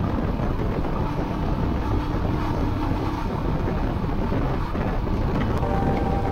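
Royal Enfield Himalayan's single-cylinder engine running as the motorcycle rides off, with wind rushing over the microphone. Just before, the engine was beating evenly at idle.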